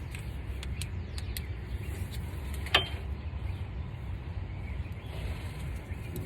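Hand tools clicking and knocking against metal, with one sharper knock near the middle, over a steady low rumble.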